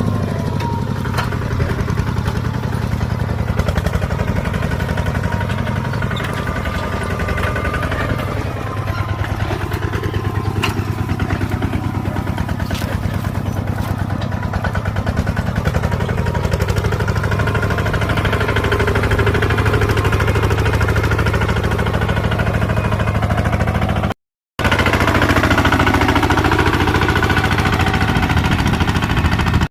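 Small tractor's engine running steadily as it pulls a plow, with a fast, even pulsing beat. A brief silent gap comes about 24 seconds in.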